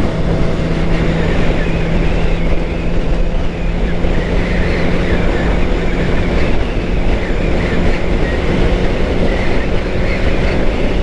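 2013 Suzuki GSX-R 600's inline-four engine running at a steady cruising speed, with heavy wind noise on the rider's microphone.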